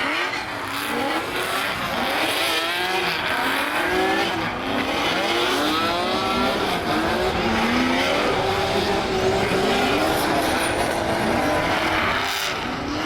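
Drift car engines revving up and down over and over, the pitch bouncing rapidly, with tyre squeal underneath.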